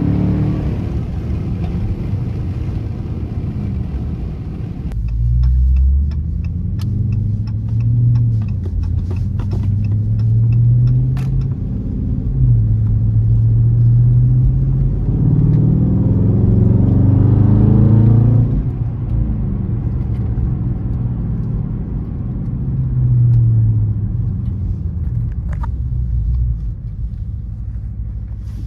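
2020 Dodge Charger R/T's 5.7-litre Hemi V8 and exhaust while driving, heard from inside the car, the revs rising and falling over several accelerations, with the longest and strongest pull about halfway through.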